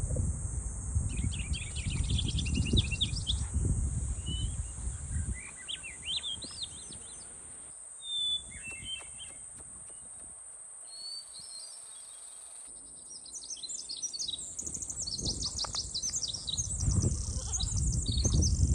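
Birds chirping and trilling in short repeated calls over a steady high hiss. A low rumble sits under them in the first few seconds and builds again near the end.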